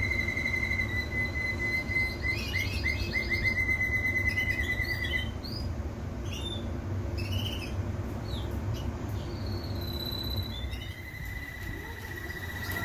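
Domestic canary singing: a long, fast trill held near one pitch with quick chirps laid over it, then a few seconds of scattered short notes, and the trill starting again about ten seconds in.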